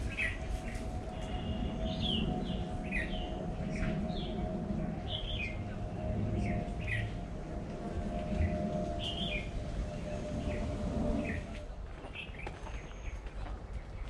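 Wild birds chirping: short falling notes, repeated every second or so, over a steady hum that stops about eleven seconds in.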